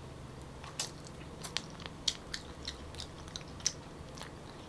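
Mouth sounds of eating soft Musang King durian flesh: quiet, wet chewing smacks and clicks, about a dozen spread irregularly over the few seconds.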